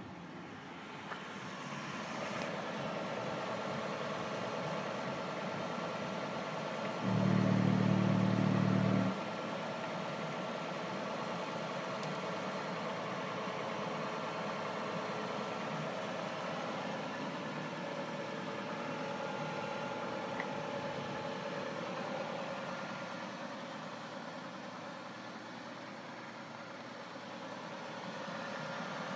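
Honda Civic VII IMA hybrid's 1.3-litre LDA four-cylinder engine idling steadily. About seven seconds in, a loud low hum cuts in for two seconds and stops suddenly.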